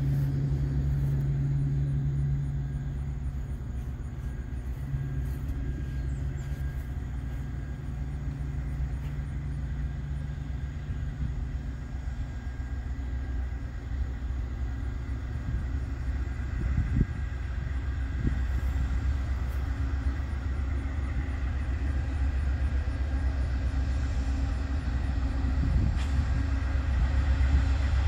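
Amtrak GE P42DC diesel passenger locomotive approaching with its train, a deep low rumble that builds and grows louder over the second half. A steady low hum underneath fades out about ten seconds in.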